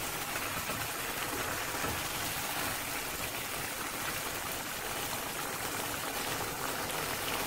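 Chicken karahi gravy of tomato, yogurt and oil sizzling and bubbling in the karahi over high heat, a steady spattering hiss as its water cooks off.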